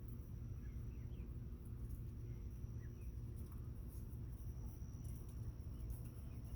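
Faint, scattered short peeps from bobwhite quail chicks over a steady low hum and a thin, steady high-pitched tone.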